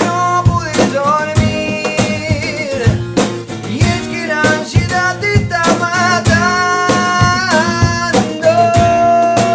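A band playing a song with guitar and drum kit, held pitched lines over a regular drum beat, and a long held note near the end.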